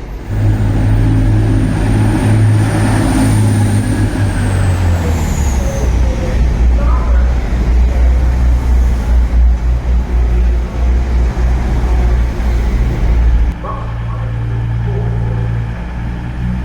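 Diesel train engine running loudly at the platform, its deep note dropping about five seconds in and rising again near the end, with a thin high whine that falls away about five seconds in.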